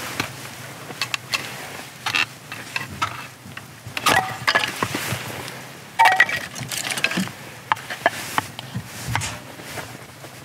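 Firewood being split with a single-bevel Japanese nata: irregular sharp knocks, clicks and cracks of blade and wood, the loudest about four and six seconds in.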